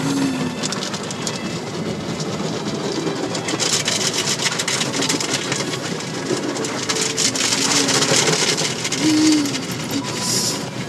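Car wash running over the car, heard from inside the cabin: a dense clatter of water spray and washing gear beating on the body, heaviest from about three and a half to nine seconds in.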